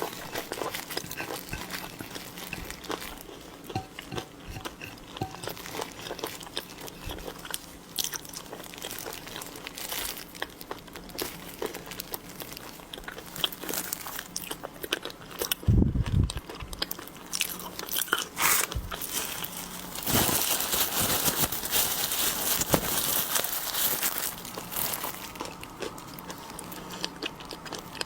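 Close-up eating of seafood: crunching, biting and chewing with many small wet clicks. There is a heavy thump about 16 seconds in, and a stretch of dense crackling from about 20 to 25 seconds in.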